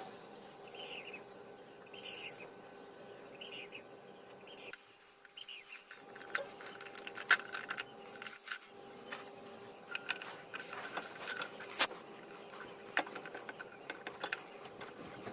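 Scattered metallic clicks and taps of tools and brake parts being handled during a brake-pad swap, busiest in the middle of the stretch, over a faint steady hum and small high chirps about once a second.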